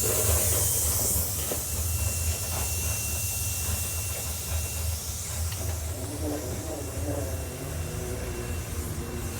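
Slow-moving freight train with a steady low rumble and a loud hiss that is strongest in the first second and then eases. A faint, thin, steady squeal runs for a few seconds in the middle.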